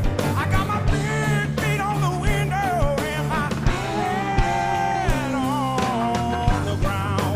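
Blues-rock band playing live: a lead electric guitar plays bent notes with wide vibrato, including a long held note that slides down, over drums and bass guitar.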